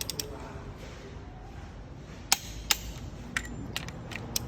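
Several sharp clicks or taps, irregularly spaced and mostly in the second half, over a steady low background noise.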